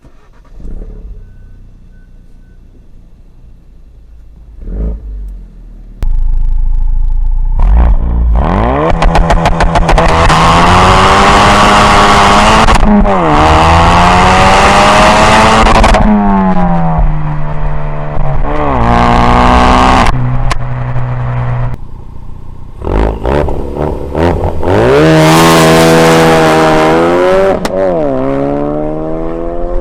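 Ford Focus RS Mk3's turbocharged 2.3-litre four-cylinder on a Bull-X EGO-X exhaust, quiet at first, then accelerating hard from about six seconds in. The revs climb and drop back with each upshift, several times over, with a brief lift-off near the middle before it pulls again.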